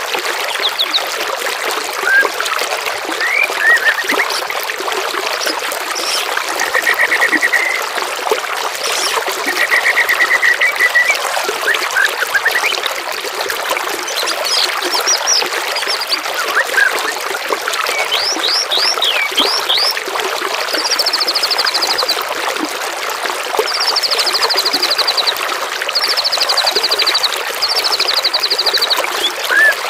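Running water trickling steadily, with songbirds calling over it: short rising chirps, two buzzy trills of about a second each early in the middle, and four higher trills of about two seconds each in the second half.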